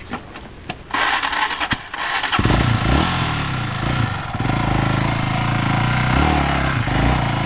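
Dirt bike engine starting up about two seconds in, then revved up and down several times and running loudly.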